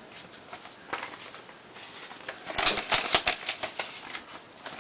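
Paper mailing envelope being opened and handled: irregular paper crinkling and rustling, with a dense run of rapid crackles about two and a half to three and a half seconds in.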